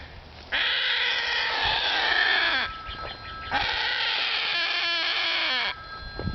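A bird hooked on a fishing lure gives two long, loud, harsh distress calls, each about two seconds long.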